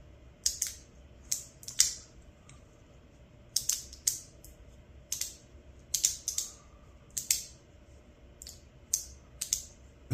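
Magnetic floating slider fidget toy with stainless steel plates being slid back and forth by hand, snapping into its magnet positions with sharp clicks, often in quick pairs, about once a second or so.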